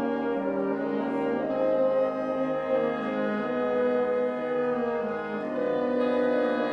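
Live classical ensemble music with French horns to the fore, playing held chords that change to new notes twice.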